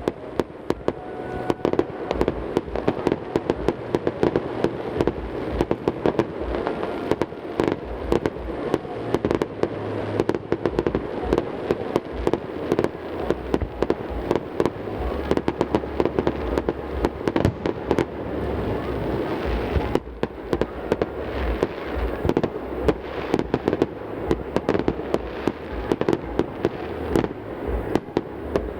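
Fireworks display: a rapid, dense barrage of bangs and crackles, many per second, echoing back off the surrounding mountains.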